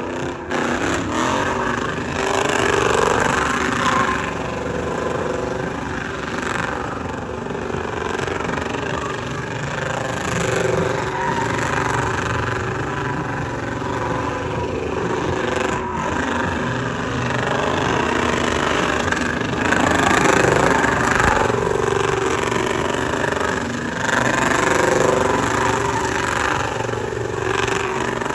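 Motor vehicle engines running, with swells of revving that rise and fall.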